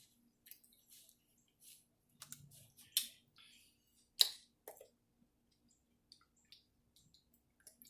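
Quiet eating sounds: scattered soft mouth clicks and smacks while chewing, with two sharper clicks about three and four seconds in.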